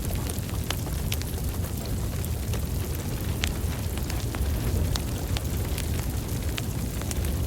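Wood fire crackling: scattered sharp pops and snaps, several a second at irregular intervals, over a steady low rumble of burning.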